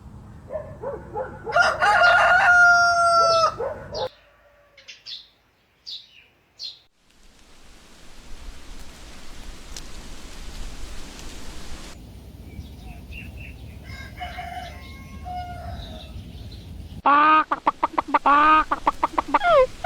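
A rooster crowing loudly in one long call, followed by a few short high bird chirps. A steady hiss of rural ambience follows, with scattered chicken clucks, and near the end a loud run of rapid repeated calls from the chickens.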